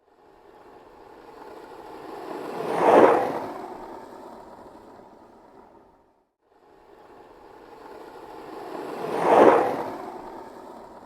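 Skateboard rolling past twice, its wheels rumbling on pavement: each pass swells to a peak and fades away, the first about three seconds in and the second about nine seconds in, with a moment of silence between.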